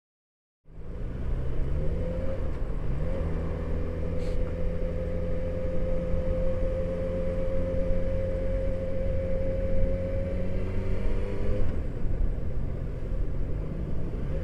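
Motorcycle engine running at steady revs on the move, over a low rumble of wind and road noise. It cuts in abruptly after a moment of silence, the engine note rises a little about three seconds in and shifts again near the end.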